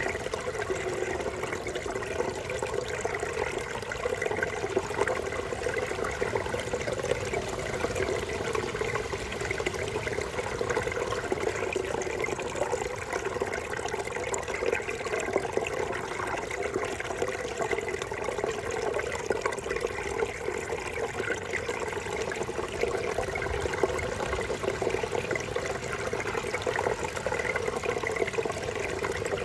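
Babbling brook: water running steadily with a continuous burble.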